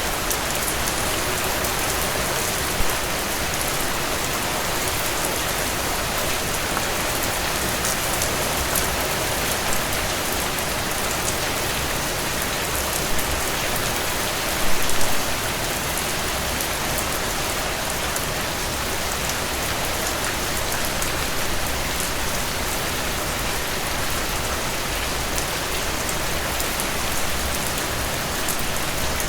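Heavy rain falling steadily, with a few sharp louder pops about 3 s in, around 13 s and in a short cluster around 15 s in.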